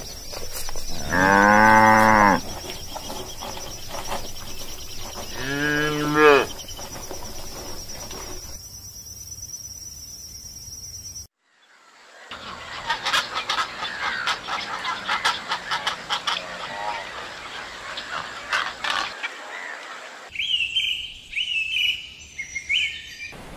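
Cows mooing twice: a long, loud moo about a second in and a shorter one around six seconds, over a steady high thin whine. After a sudden cut, a dense jumble of clicks and calls follows, then a few short high chirps near the end.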